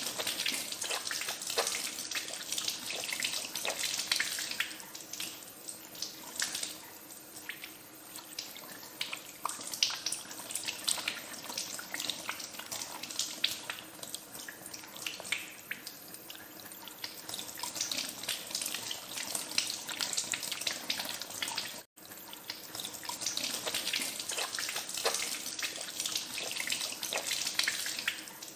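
Tap water running into a sink as hands are washed under it, with uneven splashing. The sound cuts out for an instant about three quarters of the way through.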